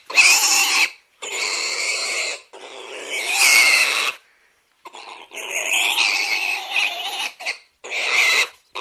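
An animal calling over and over: a series of harsh calls, each up to about a second long, separated by short gaps.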